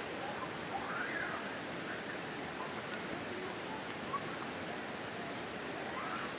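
Campfire burning with a steady rushing hiss and a few faint crackles.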